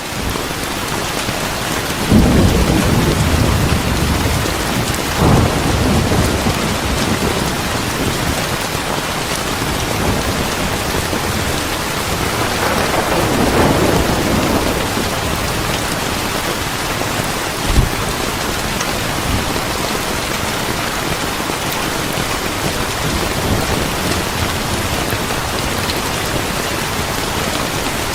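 Steady heavy rain with rolls of thunder: one rumble builds about two seconds in and another swells midway through. A single sharp crack comes a little past the middle.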